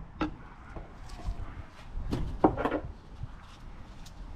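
Several light knocks and clatters of engine parts and tools being worked by hand, the clearest group about two and a half seconds in.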